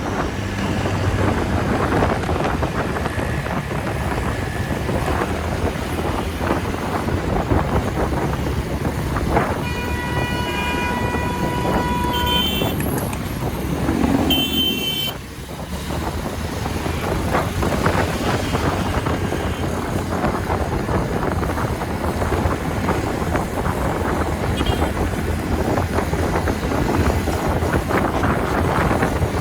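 Wind rushing over the microphone and road noise while riding a TVS Ntorq scooter at highway speed. A vehicle horn sounds about ten seconds in for two or three seconds, with short higher honks just after.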